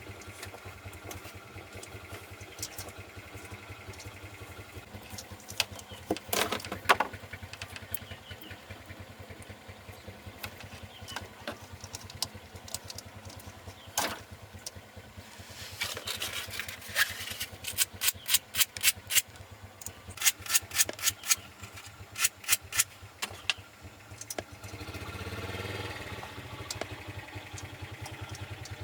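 An engine idling steadily. Over it come a few single sharp knocks, then several quick runs of sharp taps in the middle.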